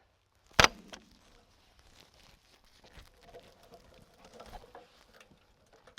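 One sharp knock about half a second in, then faint scattered ticks and shuffling, like footsteps and handling.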